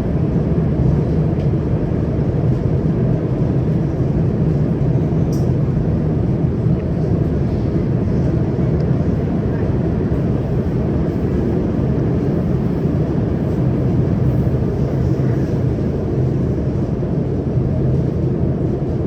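CRRC Qingdao Sifang Type A electric metro train running between stations, heard inside the car: a steady low rumble of wheels on rail and running gear, level and unbroken.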